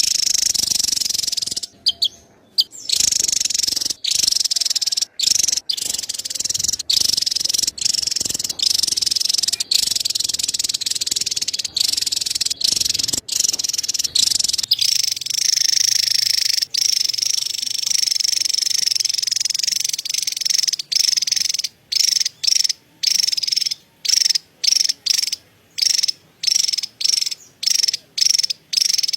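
Javan tesia giving its fast, high-pitched chattering call, a dense buzzy trill that runs almost without a break, then breaks into short bursts with brief gaps over the last several seconds.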